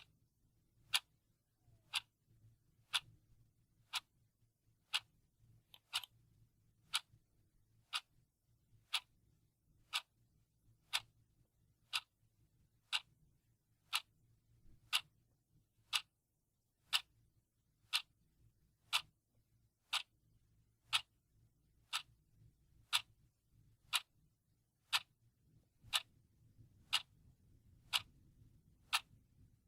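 Clock ticking steadily, one tick a second.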